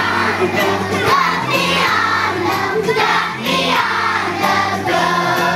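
A kindergarten children's choir singing a song together over instrumental accompaniment with sustained bass notes.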